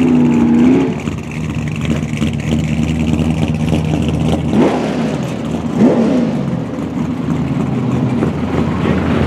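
Pontiac 455 cubic-inch V8 in a 1964 Pontiac drag car, settling from raised revs to a steady idle about a second in, then blipped twice with quick rev-ups a little over a second apart midway.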